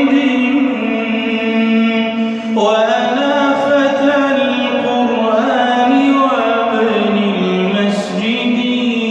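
Wordless vocal chanting from a nasheed: voices hold long notes and slide from one to the next every couple of seconds.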